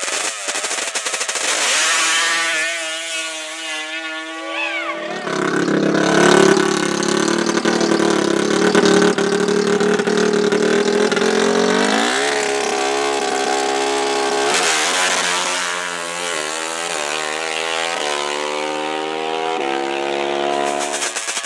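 Drag-racing ATV engine revving hard and holding at high revs, then accelerating through a string of gear shifts, the pitch climbing and dropping back with each shift.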